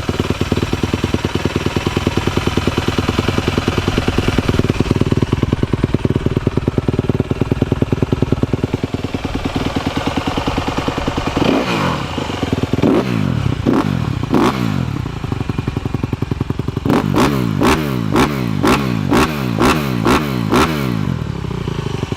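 Honda CRF250 dirt bike's single-cylinder four-stroke engine idling steadily just after an electric start, then revved in a few throttle blips from about halfway in, ending in a quick string of short revs.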